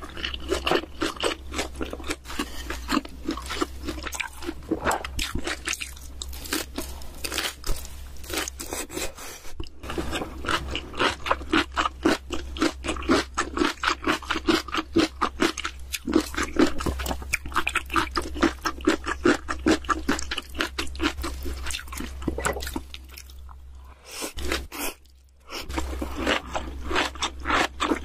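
A person chewing food close to the microphone, a rapid run of wet, crunchy mouth sounds with a short pause near the end, over a low steady hum.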